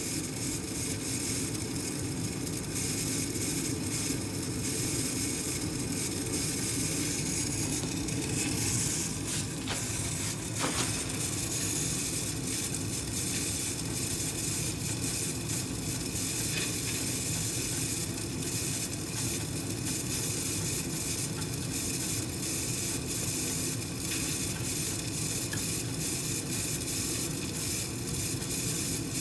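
Furnace draft inducer motor running with a steady grinding noise: the inducer motor is failing and needs replacing.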